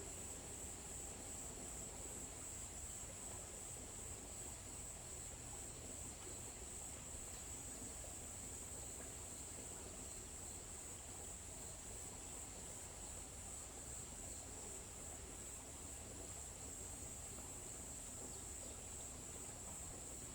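Steady chorus of insects in a forest, a continuous high-pitched buzz that holds unbroken, over faint low ambient noise.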